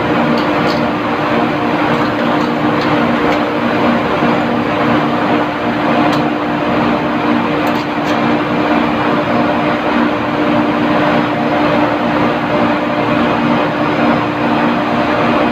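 Loud, steady machinery noise with a constant hum and a few faint clicks.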